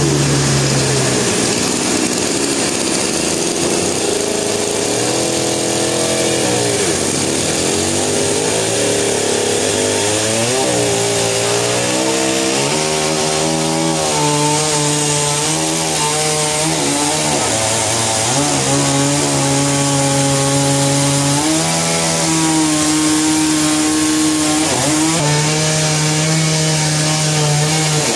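A sawmill saw cutting through a log: a steady machine drone over the high hiss of the blade in the wood. The pitch sags and recovers several times as the cut loads the machine.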